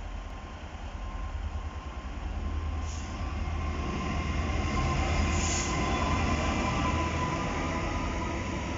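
A GBRF Class 66 diesel-electric locomotive, its two-stroke V12 engine running, hauling a container freight train past, growing louder as it draws near. Heavy wagons rumble by on the rails after it.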